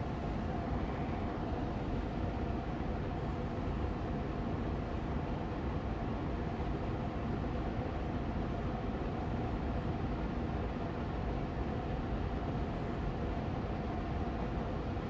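Austin Air Allergy Machine air purifier fan running steadily on medium speed: an even rush of air with a faint, steady hum.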